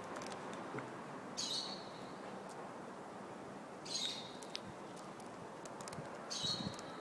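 A bird gives a short, high chirp three times, about every two and a half seconds, each one a sharp start that settles onto a brief steady note. A steady background hiss runs underneath.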